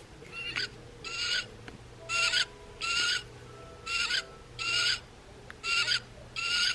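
Recorded wood duck calls played from the small speaker of a Wild Republic plush large wood duck: eight short squealing calls in four pairs, each ending in a rising squeal.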